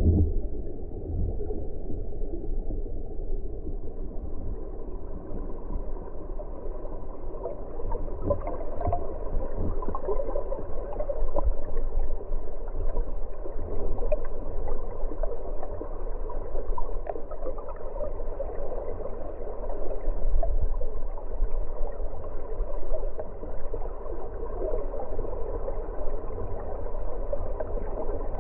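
Flooded river Churn rushing and gurgling past the bridge. The noise is steady and dull, with nothing high-pitched, over a low rumble.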